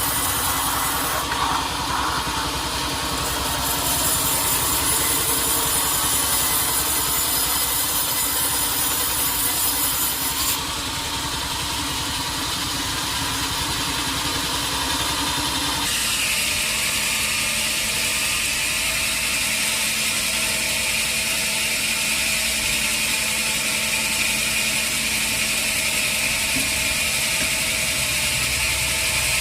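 Sawmill machinery running steadily, a mix of engine or motor noise and saw noise. The sound changes character abruptly about ten seconds in and again about sixteen seconds in.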